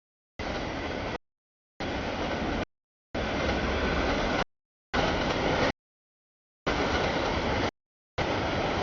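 Freight train rolling past, with steady rumbling noise. It is heard as six abrupt cut segments, each about a second long, separated by dead silences.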